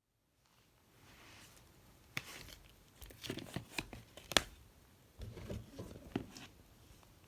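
Packaging being handled during an unboxing: a run of crinkles, rustles and sharp clicks, the loudest a click about four seconds in.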